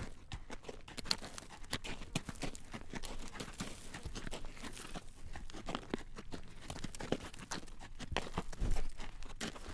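Horse's hooves clacking on a road as it draws a carriage: a continuous, uneven run of clip-clop strikes.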